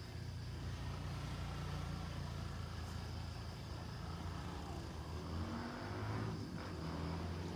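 Road traffic: a steady low engine rumble, with a vehicle passing and swelling louder between about five and seven seconds in.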